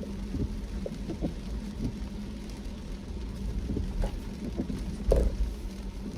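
A car driving in rain: a steady low road rumble with a faint steady hum, and scattered short knocks, the loudest about five seconds in.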